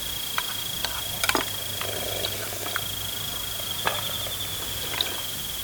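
A cricket trilling one steady high note, breaking off briefly about two seconds in, with a few light clinks of spoons on bowls.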